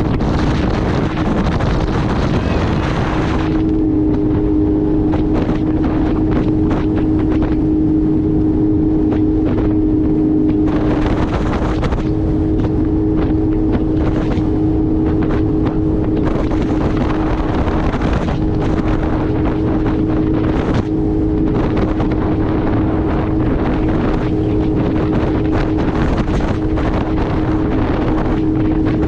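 Jet ski engine running at a steady speed with a constant engine note, and wind buffeting the microphone in gusts.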